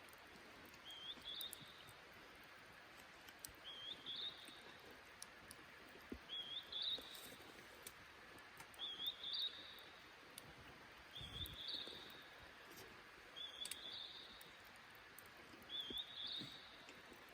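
A bird calling over and over, giving the same short rising phrase about every two and a half seconds, seven times, over a faint steady hiss.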